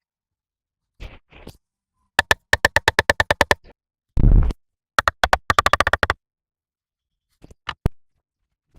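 Two quick runs of sharp knocks, about eight to ten a second, each lasting over a second, with a single heavier thump between them.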